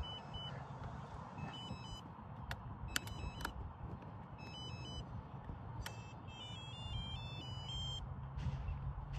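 Groups of short, high electronic beeps from an RC model's electronics, some stepping up and down in pitch like a start-up tune, with a few sharp clicks among them. A low steady hum runs underneath and grows a little stronger near the end.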